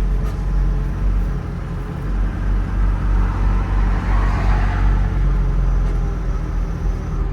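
Diesel tractor engine running steadily, with a brief swell of hissing noise about four seconds in.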